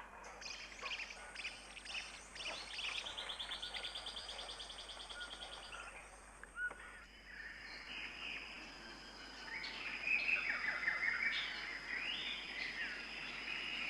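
Tropical forest soundscape: several birds calling over steady high-pitched insect buzzing. A fast trill repeats in the first half, and a burst of calls comes in the second half.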